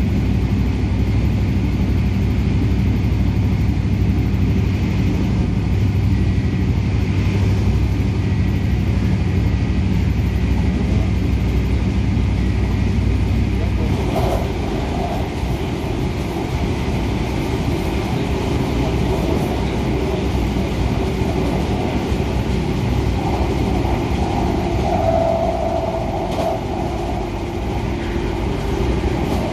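Cabin noise of an MTR A-Train electric multiple unit running at speed: a steady rumble of wheels on rail and running gear. The low rumble eases about halfway through, and a brief steady tone sounds about three-quarters of the way in.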